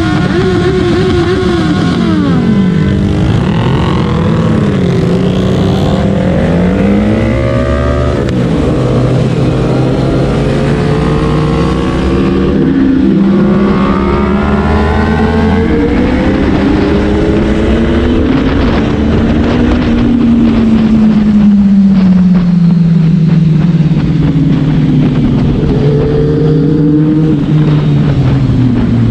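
Several sport motorcycle engines running at once, their pitches rising and falling as they rev up and back off. One engine note sweeps slowly down in the second half.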